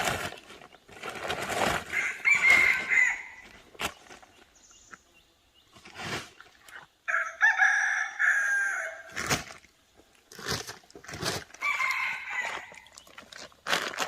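A rooster crowing, with one long crow about seven seconds in and shorter calls before and after it. Several sharp knocks sound in between.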